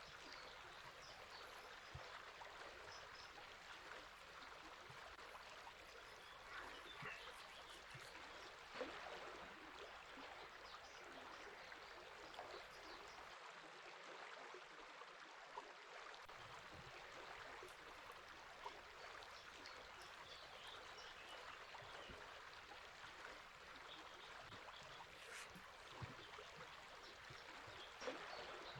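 A river flowing steadily and faintly, with brief bird chirps now and then.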